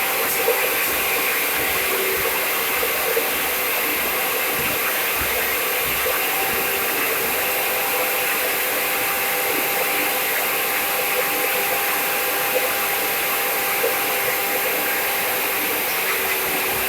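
Steady machine noise: an even, loud hiss with a constant hum underneath, unchanging throughout.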